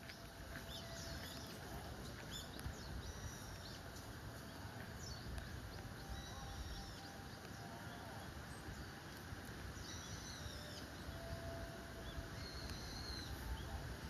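Wild birds giving short, high calls several times at irregular intervals over a steady low outdoor background rumble.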